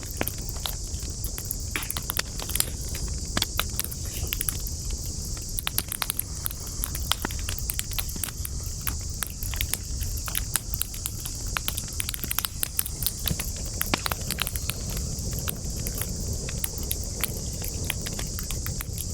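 Wood campfire crackling: irregular sharp pops and snaps, several a second, over a low steady rumble and a constant high-pitched hiss.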